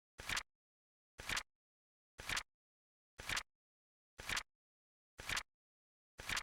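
Flip-clock sound effect: a short papery flap-and-clack once a second as the seconds card flips over, seven times, with dead silence between flips.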